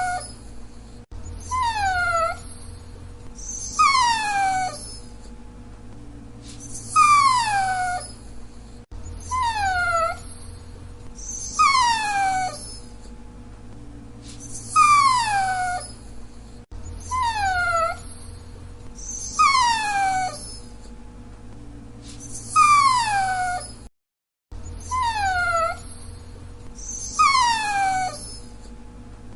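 Dachshund whining: high-pitched whines that slide down in pitch, one every two to three seconds, falling into a pattern that repeats about every eight seconds.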